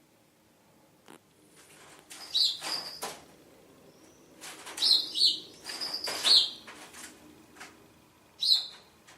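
Small bird chirping in short, scattered calls, some with a rustle or flutter, in groups about two and a half, five to six and eight and a half seconds in.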